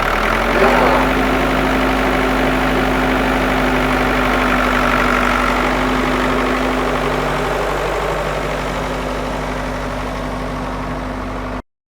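Small electric motor running steadily with a constant hum and whine; it cuts off abruptly near the end.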